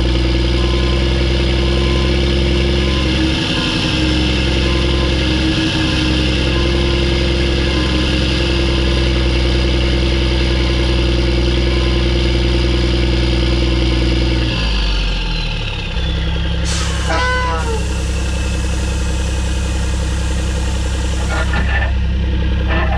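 Mack E7 inline-six turbo diesel in a Mack CH612 truck running steadily under load with a high turbo whistle over the engine. About two-thirds of the way through the throttle comes off: the engine note drops and the whistle slides down in pitch as the turbo spools down, after which the engine runs on at a lower steady note, with a brief squeal soon after and a few clicks near the end.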